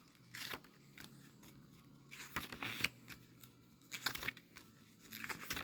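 Paper handling: soft rustles and scattered light clicks, as of a book's pages being turned and handled.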